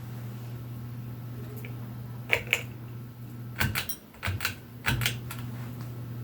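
Westinghouse Swirl ceiling fan running with a steady low hum, broken by a cluster of sharp clicks and knocks from about two to five seconds in.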